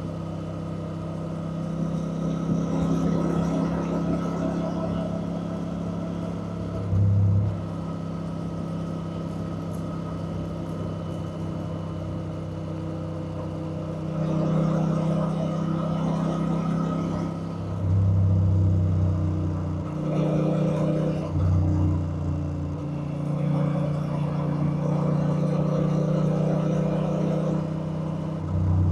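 Honda Rebel 1100's parallel-twin engine running as the motorcycle is ridden, its note rising and falling with the throttle, with several brief, louder low surges.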